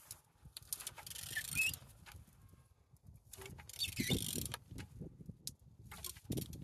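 Removed engine being turned over by hand, in three rounds of mechanical clicking and rasping a couple of seconds apart; the engine turns freely.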